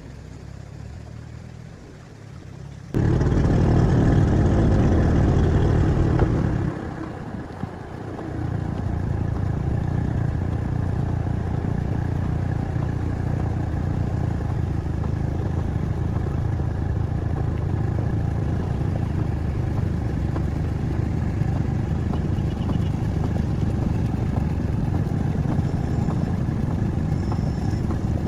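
An engine running: it comes in suddenly about three seconds in, is loudest for a few seconds, eases off around seven seconds, then runs on steadily.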